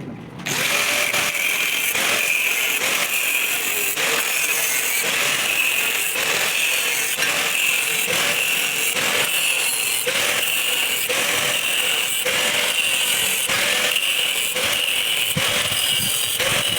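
Electric arc welding on steel, crackling steadily, starting about half a second in.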